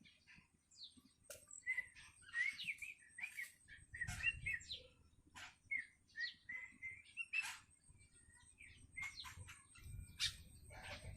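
Long-tailed shrike (cendet) chick calling: a rapid series of short chirps, wavering warbling notes and harsh raspy cries, the hungry begging calls of a young shrike that is learning to sing.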